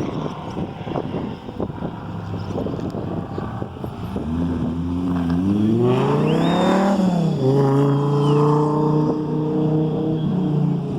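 1991 Pontiac Firebird Trans Am WS6's V8 engine accelerating hard: its pitch climbs, drops sharply at an upshift about seven seconds in, then pulls on steadily. Gusty wind noise comes before the engine.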